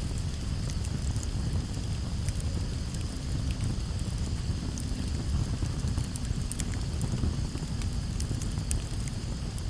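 Campfire burning: a low steady rumble of the flames with scattered sharp crackles and pops from the burning wood, over a steady high-pitched hiss.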